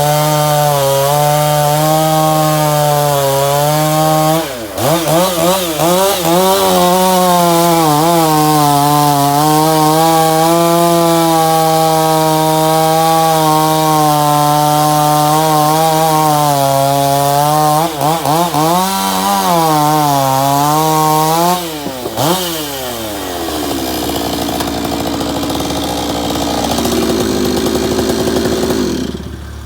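Stihl MS461 two-stroke chainsaw with a custom billet aluminium muffler cap running at full throttle under load, its pitch wavering as it cuts. The revs dip and recover briefly twice. A little over twenty seconds in they fall away to a lower, lighter run, which drops again near the end.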